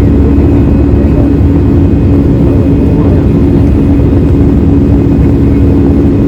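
Airbus A319 jet engines heard from inside the passenger cabin, running steadily under power, a loud even rumble with a constant hum.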